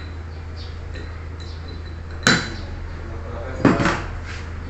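Two sharp clanks, about a second and a half apart, of metal parts being handled, over a steady low hum.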